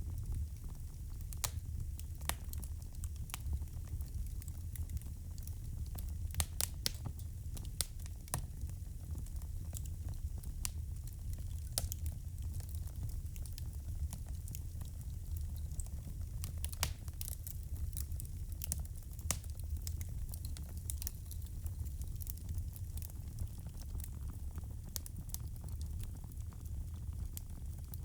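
Wood fire crackling: frequent irregular sharp pops and snaps over a steady low rumble of the burning logs.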